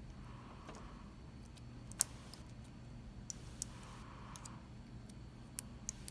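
A few small, sharp clicks of metal on metal as a Mul-T-Lock MT5 lock and thin shims are handled, the loudest about two seconds in, over a steady low hum.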